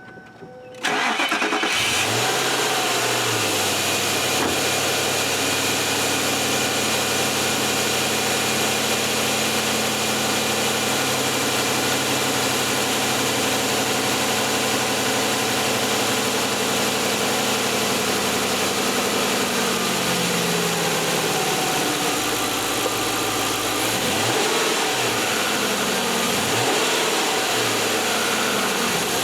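2002 Ford Thunderbird's 3.9-litre V8 cranking and starting about a second in, then idling steadily after a cylinder 8 coil pack and spark plug replacement that was made to cure a misfire. The idle pitch drops a little past the middle.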